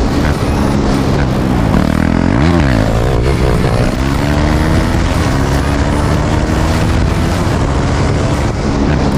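KTM Duke 390's single-cylinder engine running with its muffler removed, heard while riding. It holds a loud, steady note, with one quick rise and fall in pitch about two and a half seconds in.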